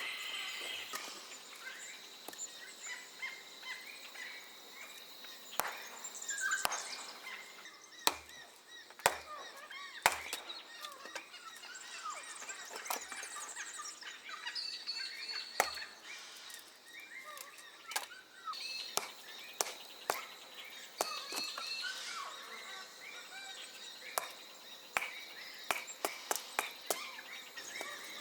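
Birds chirping and calling throughout, over sharp knocks and clicks. There is a cluster of louder knocks about a third of the way in and a quick run of them near the end.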